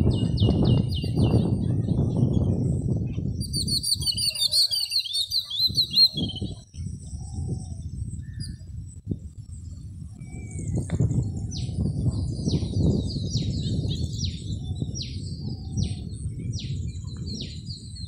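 Birds calling: a burst of rapid high chattering a few seconds in, then from about the middle a run of short, high, downward-sweeping notes, about two a second. All of it sits over an uneven low rumble.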